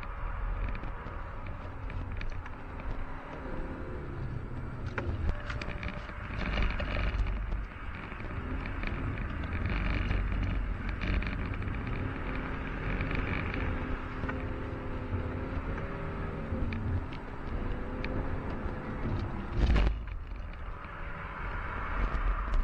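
A BMW 118d's four-cylinder turbodiesel, heard from inside the cabin, with its revs rising and falling over and over under throttle while the car drifts, over a steady low rumble. There is a single loud thump about twenty seconds in.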